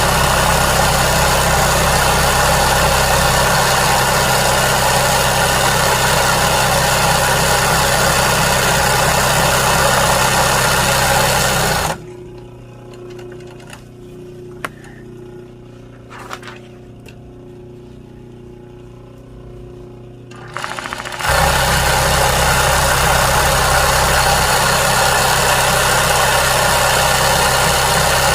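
Sewing machine running steadily as it stitches embroidery. It stops about twelve seconds in, then after a quieter stretch with a few light clicks it starts up again about nine seconds later.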